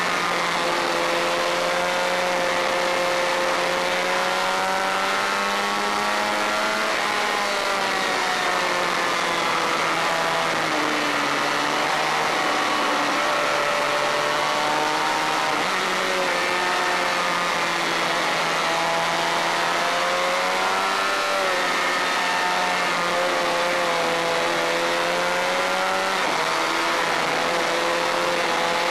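Honda VFR400 V4 race bike engine running hard at high revs. Its pitch climbs and falls through the lap, with several sudden drops in pitch at gear changes, over a steady rush of wind noise.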